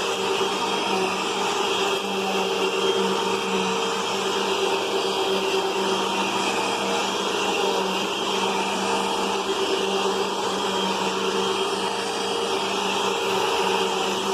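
Hoover UH71250 Whole House Rewind bagless upright vacuum cleaner running steadily: an even motor hum over a constant rush of air.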